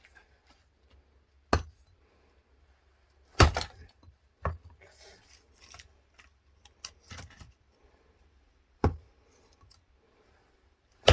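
Axe blows on firewood being split by hand: sharp single strikes a second or several apart, five in all, the one about three and a half seconds in the loudest.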